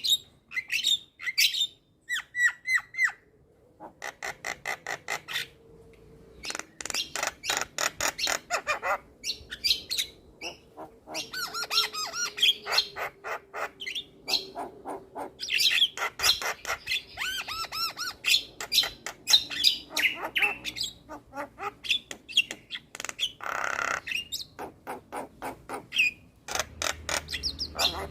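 Javan myna singing a long, varied song: fast runs of short repeated notes, whistled phrases and harsh squawks, with one longer rasping call near the end.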